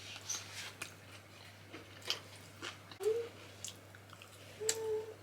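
Close-up eating sounds from a mukbang of kodo ko dhido (millet dough) and curry: chewing with scattered wet smacks and clicks. A short vocal sound comes about three seconds in and another near the end.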